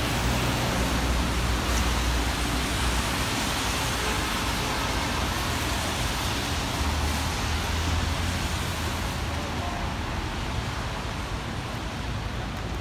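Heavy rain falling on a city street: a steady hiss with the low rumble of road traffic underneath.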